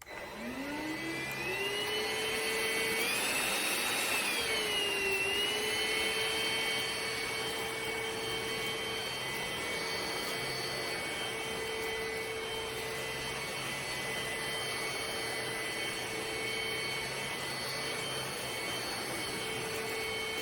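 Trucozie cordless stick vacuum's motor spinning up with a rising whine, then running steadily. Its pitch dips briefly and recovers about four to five seconds in.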